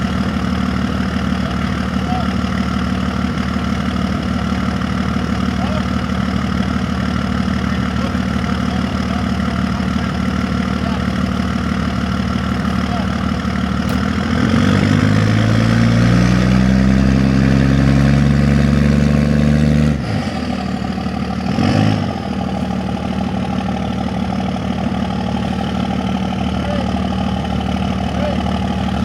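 Lifted pickup truck's engine idling, then revved up for about five seconds under load and dropped back to idle, with one short blip of the throttle about two seconds later.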